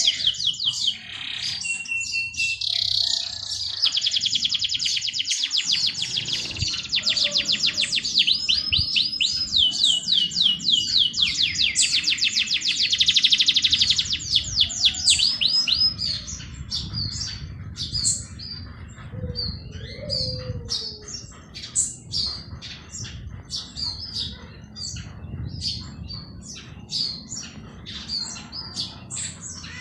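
Songbirds singing: rapid, dense trills of high repeated notes for about the first half, giving way to separate sharp chirps.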